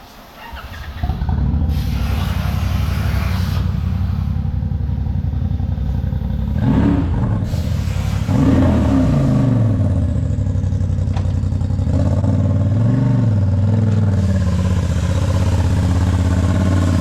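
A vehicle engine starts about a second in and runs at idle, its pitch rising and falling a few times as it is revved or driven.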